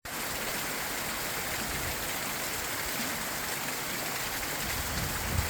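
Steady rush of flowing water, like a stream running through the canyon.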